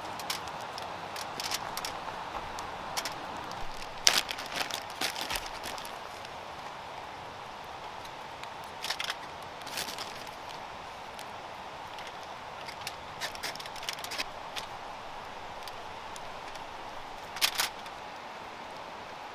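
Campfire crackling: irregular sharp pops and snaps over a steady hiss, with a cluster of pops about four seconds in and a loud single snap near the end.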